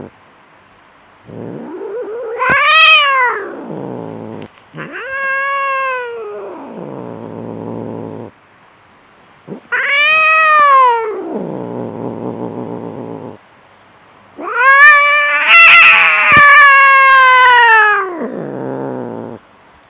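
Cats yowling in a fight: four long, loud howls that rise and fall in pitch, each trailing off into a low growl. The last and loudest one has a harsh screech in its middle.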